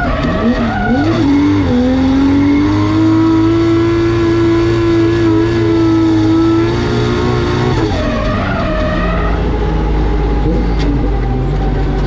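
2JZ straight-six of a Nissan S15 drift car being driven hard through a drift, with tyre squeal. The revs swing up and down, hold high and steady for about five seconds, then drop back. The sound cuts off suddenly at the end.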